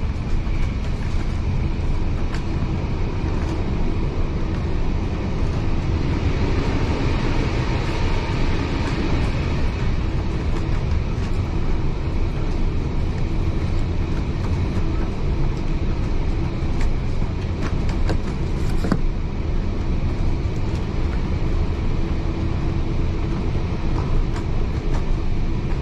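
Heritage railway carriage running at speed, heard from inside: a steady rumble of wheels on the rails with a few light clicks, one sharper click about three-quarters of the way through.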